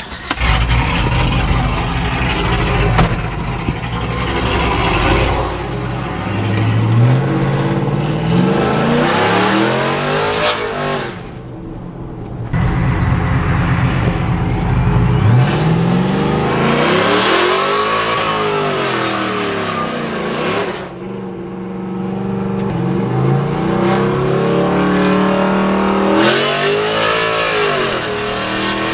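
Pickup truck engine pulling hard under acceleration, with the engine note climbing three times and dropping sharply twice as it shifts up through the gears. The truck has just had its rear axle gears changed from 4.11 to 4.56, and it picks up a little quicker.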